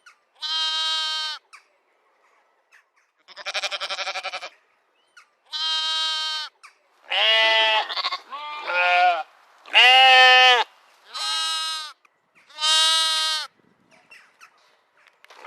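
Goats or sheep bleating: a series of eight high, drawn-out bleats of under a second each, with gaps between them. One bleat, about three seconds in, has a quavering tremble.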